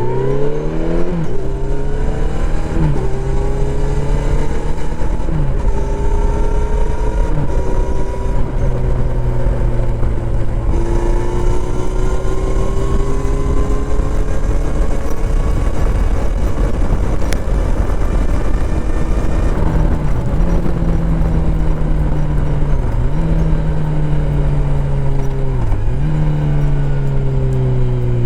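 Kawasaki Z900RS inline-four engine through a full-system exhaust, accelerating hard at the start, then running at a near-steady pitch with several brief dips in the engine note as the throttle is rolled off and back on.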